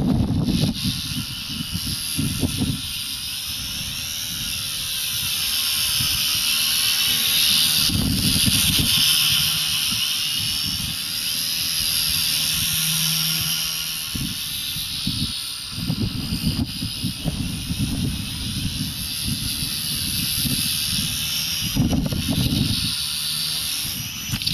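Coaxial RC helicopter with a brushless electric motor flying, a high whine of motor and rotors whose pitch rises and falls with the throttle. Gusts of wind rumble on the microphone underneath.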